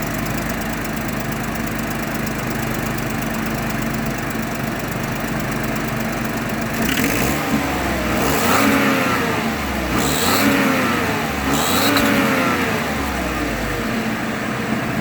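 Ford F-150's 3.5 L EcoBoost twin-turbo V6 on a cold start, idling steadily and then revved four times from about seven seconds in, each rev rising and falling in pitch. A sharp high-pitched chirp comes in with each rev, which the owner takes from his reading for a leaking exhaust manifold gasket.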